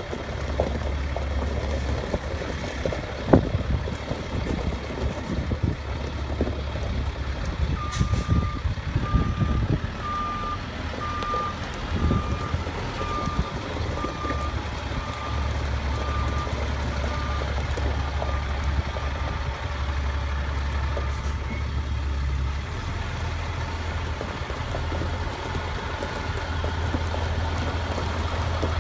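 Freightliner FL70 bucket truck's diesel engine running, with its backup alarm beeping in the middle, a little more than once a second for about twelve seconds, the beeps growing fainter towards the end.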